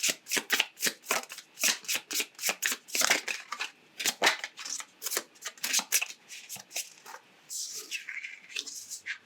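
A tarot deck being shuffled by hand, with quick crisp card clacks about four a second. About seven seconds in, the shuffling gives way to softer, sparser card sounds.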